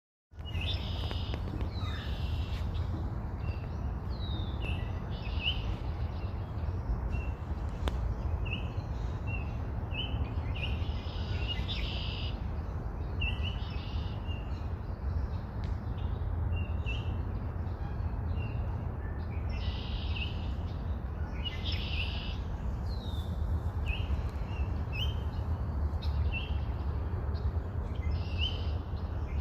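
Small backyard birds chirping and calling, short high chirps repeating every second or so, over a steady low rumble.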